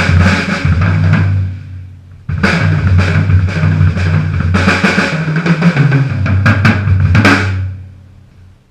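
Sonor acoustic drum kit played hard, bass drum and snare driving busy grooves. The playing drops out briefly about two seconds in, starts again with a sharp hit, and ends about seven seconds in, the last hits ringing out.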